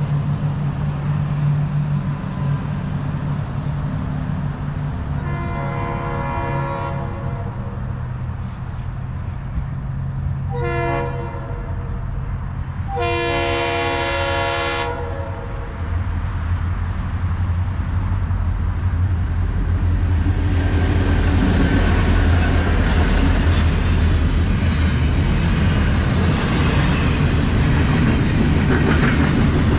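Florida East Coast Railway freight train approaching: its locomotive's air horn sounds three times, a long blast, a short one and a long one, over a low diesel rumble. From about the middle the rumble grows heavier as the locomotives pass, then gives way to the steady rolling noise of double-stack container cars on the rails.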